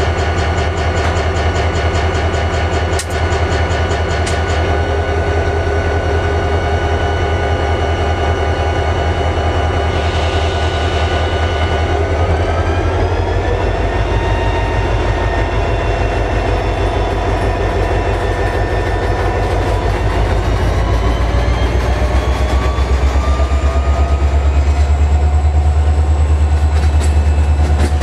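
EMD 16-cylinder 645 diesel prime mover running steadily, then revving up in two steps, about halfway through and again near the end, growing louder as it is throttled up. There is a brief click about three seconds in.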